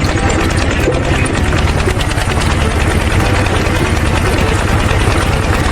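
Engine sound of a DIY mini tractor running steadily, a loud, fast even chugging.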